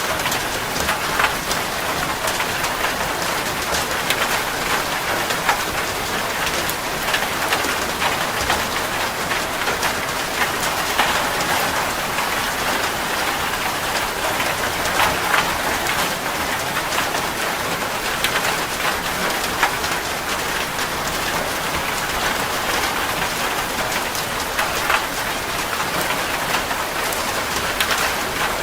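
Steady rain falling on a surface, with a dense hiss and many distinct drop impacts.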